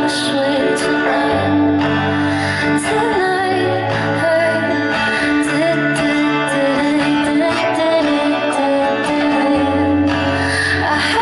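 Live pop song: a woman singing lead over sustained bass notes and backing instruments.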